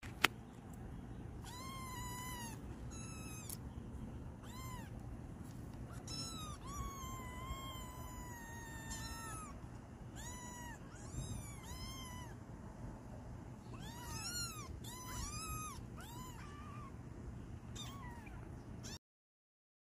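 An animal calling over and over in short, high calls, each rising and then falling in pitch, some brief and some drawn out, over a low steady hum. A sharp click comes just at the start, and the sound cuts off suddenly near the end.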